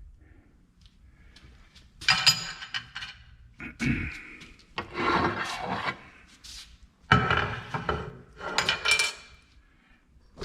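Handling noise: rubbing and scraping in about five separate bursts, as things are moved and set up by hand. There is no motor running.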